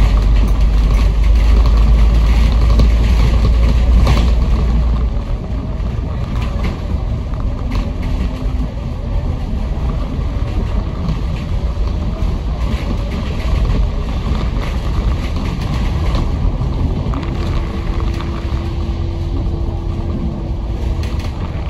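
Kowloon Motor Bus route bus heard from on board as it runs, with steady engine and road noise. A deep low rumble eases off about five seconds in.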